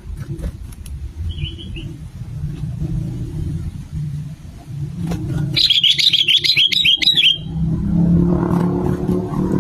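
Sooty-headed bulbul (kutilang) giving one quick burst of chirping song, a run of short, bright notes lasting under two seconds, about six seconds in. Under it runs a steady low rumble that grows louder near the end.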